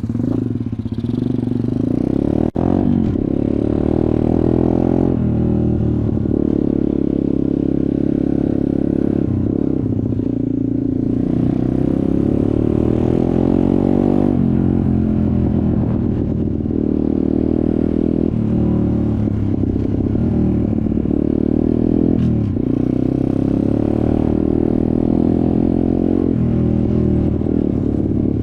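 Dirt bike engine running under way, its pitch rising and falling again and again as the rider opens and closes the throttle, with a sharp click about two and a half seconds in.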